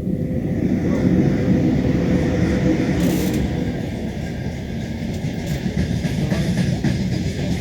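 Passenger train carriage running along the line, wheels rumbling and clattering on the rails, heard from inside the car at the window. A sharper knock about three seconds in.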